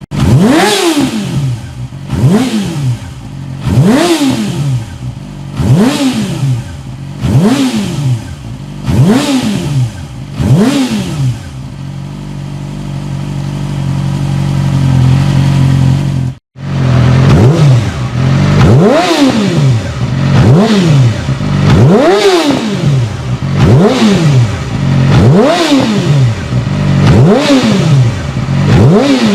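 Yamaha YZF-R6 inline-four sport-bike engine being blipped repeatedly, each rev rising and dropping quickly, about one every second and a half. Midway it runs steadily for a few seconds, then the sound cuts off abruptly and the revving picks up again.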